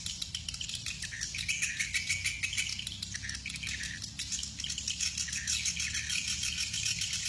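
Edible-nest swiftlets twittering: a dense, continuous chatter of rapid high chirps, over a low steady rumble.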